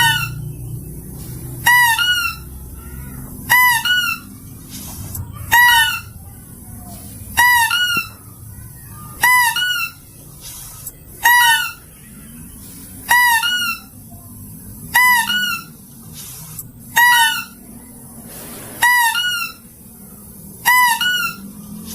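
Mouse-deer (kancil) lure call: a short, shrill two-part call with many overtones, repeated about every two seconds at a steady pace.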